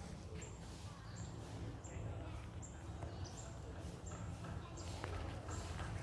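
A small bird chirping over and over, short very high chirps about once a second, over a low rumble of wind or handling noise.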